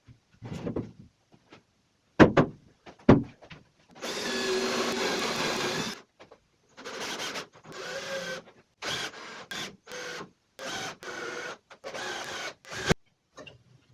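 Power drill-driver running screws into particle board: two sharp knocks, then a steady two-second run of the motor, then a string of short bursts of the motor.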